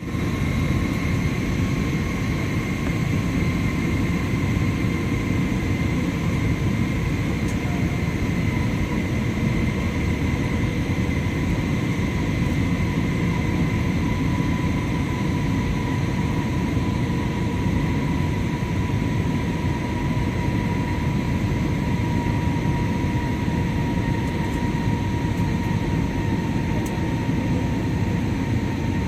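Steady airliner cabin noise in flight on approach: a deep, even rumble of engines and airflow with a faint steady whine on top.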